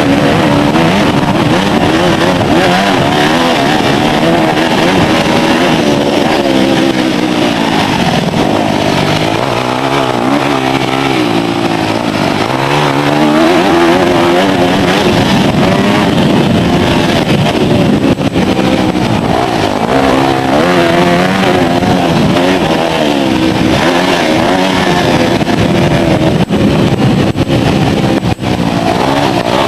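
Four-stroke single-cylinder engine of a 2006 Yamaha YZ250F motocross bike, revving up and down repeatedly under racing throttle. Its exhaust cam is set one tooth off, which the owner says keeps it from running as well as normal.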